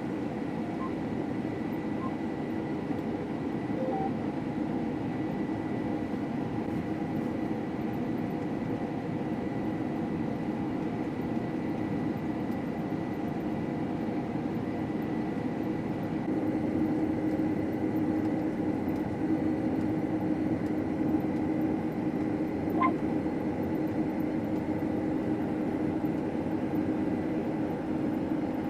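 Combine harvester running steadily while cutting wheat, heard from inside the cab: an even mechanical drone with a constant hum and a thin high whine, growing a little louder about halfway through.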